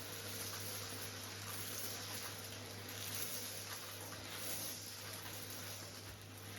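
Henry cylinder vacuum cleaner running steadily with a low hum and an airy hiss as it sucks small stones up off artificial grass.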